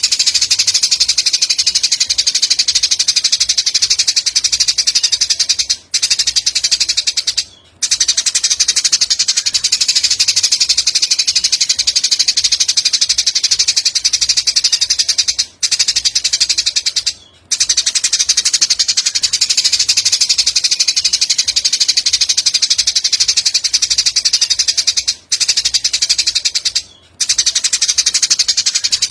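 Songbird tutoring (masteran) recording: a loud, high-pitched, very rapid buzzing trill that runs on without pause, except for short breaks that come in pairs and repeat about every ten seconds, as in a loop.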